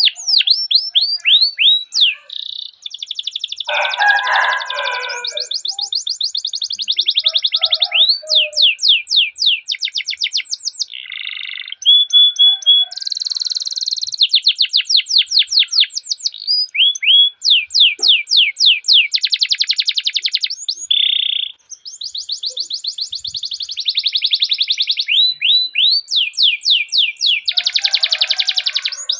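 Domestic canary singing a long rolling song: runs of quick downward-sweeping trilled notes, many a second, broken by short whistled notes and dense rattling trills, with a harsher, lower passage about four seconds in.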